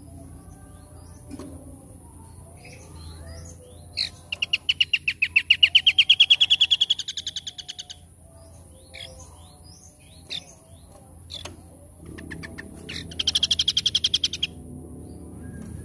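Small songbirds singing: a loud, rapid trill of evenly repeated notes about four seconds in, rising slightly in pitch for some four seconds, then scattered short chirps and a second fast trill near the end, over a steady high-pitched whine.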